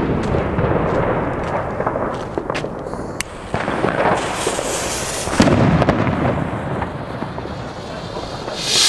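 Fireworks rockets going off, with continuous crackling and rumbling bangs. Near the end comes a loud rushing hiss that swells and fades, the sound of a rocket launching.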